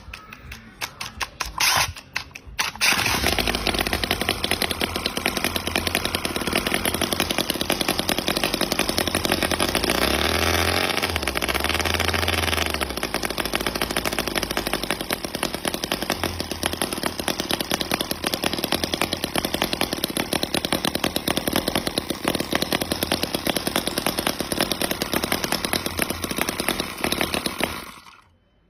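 2.2cc miniature twin-cylinder four-stroke gasoline engine. After a few sharp clicks it starts about three seconds in and runs steadily at high speed. It gets louder for a few seconds in the middle, then shuts off near the end.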